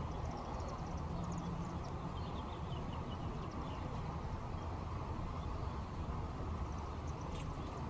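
Faint, scattered chirps of small wild birds, mostly in the first few seconds and again near the end, over a steady low outdoor background noise.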